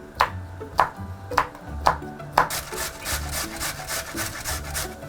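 Knife cutting a leek on a wooden chopping board: a few slow cuts about half a second apart, then quicker chopping at several strokes a second.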